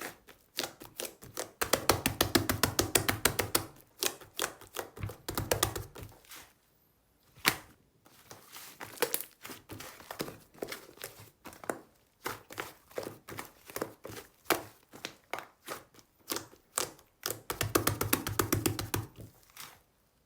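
Slime being pressed and squeezed by hand, giving runs of rapid sticky clicks and pops, about ten a second, with short pauses between the runs.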